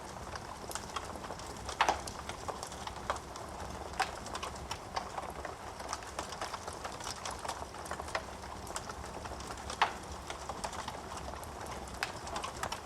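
Wood fire crackling in a fireplace: an irregular run of small snaps and pops over a steady low rumble of flame, with two sharper, louder pops, about two seconds in and again near ten seconds in.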